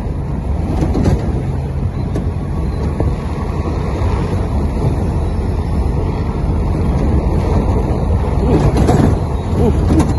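Motor vehicle on the move: a steady engine and road rumble, heard from on board while driving.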